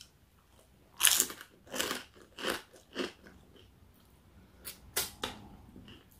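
Close-up chewing of crispy food: a few crunchy bites about half a second apart, then a quieter stretch and a few sharp wet mouth clicks near the end as fingers are licked.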